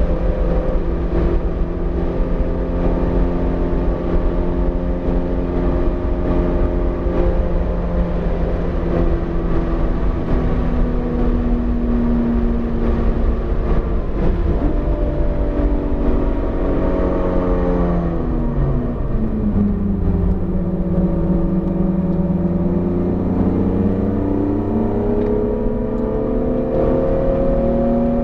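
BMW E46 M3's 3.2-litre S54 inline-six, a newly built engine still being broken in, running steadily over a low rumble. A little past the middle the revs drop sharply, then climb steadily again toward the end.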